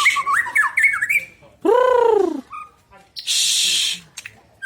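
White-rumped shama singing. It gives a run of quick, sharp whistled notes, then a harsh drawn-out note about a second and a half in, and a loud rasping hiss a little after the middle.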